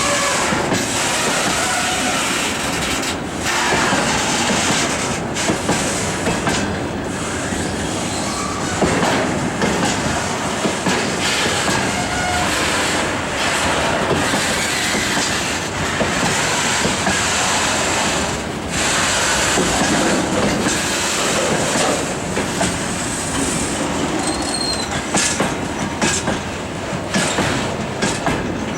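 Freight train rolling past at close range, its wagon wheels clicking over rail joints in a steady clatter, with faint wheel squeal now and then.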